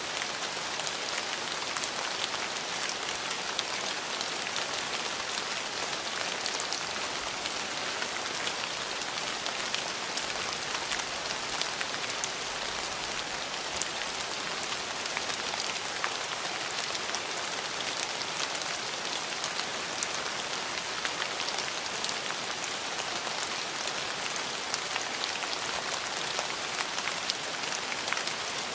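Steady rain falling, an even hiss with many fine drop ticks, unchanging throughout.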